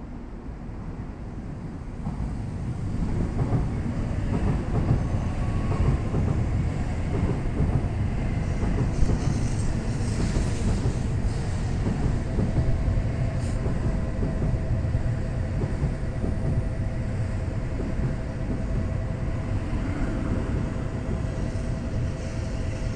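Shinkansen bullet train pulling into the platform: a low rumble of wheels and motors swells about two seconds in and runs on as the cars glide past, with a steady high tone joining about halfway through.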